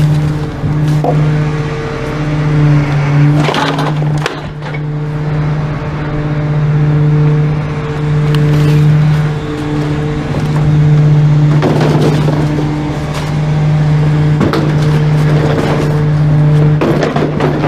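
Trash truck's engine running at a steady drone, with a few brief clattering rattles over it.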